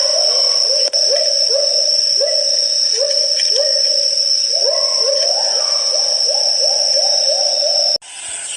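Great argus calling: a long series of short rising hoots, about two a second, quickening toward the end, over a steady high-pitched whine. It cuts off abruptly near the end.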